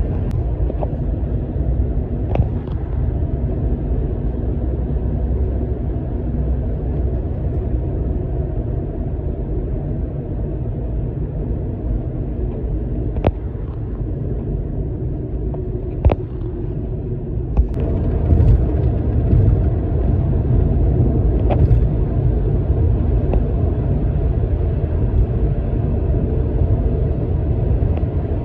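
Steady low rumble of road traffic and a vehicle in motion, with a few sharp clicks; it grows louder about two-thirds of the way through.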